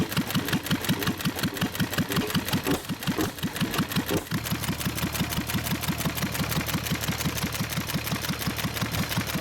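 1923 McCormick-Deering Model M 1.5 hp single-cylinder hit-and-miss engine running, a quick even beat of about six strokes a second. A steady low hum joins about four seconds in.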